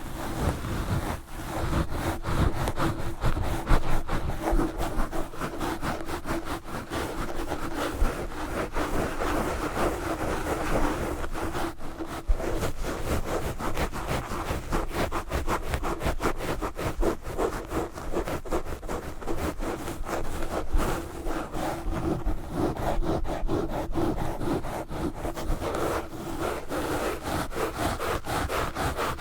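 Fast, aggressive scratching and rubbing right on a microphone with knitted wool gloves, a dense run of rapid rough strokes that goes on without a break.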